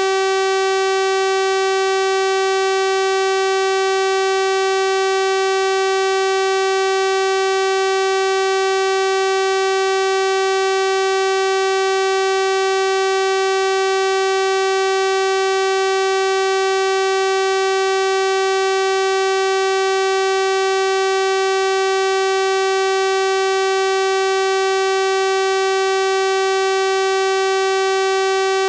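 Synthesized 384 Hz sawtooth-wave tone, a steady buzzy hum at one unchanging pitch, rich in overtones.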